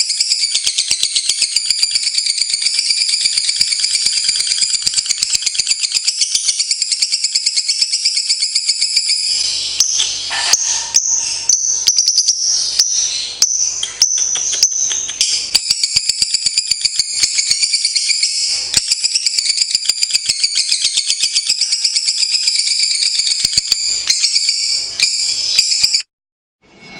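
Lovebird singing a long, unbroken run of rapid, high-pitched chattering trills, the extended chatter that lovebird keepers call ngekek. It cuts off abruptly about a second before the end.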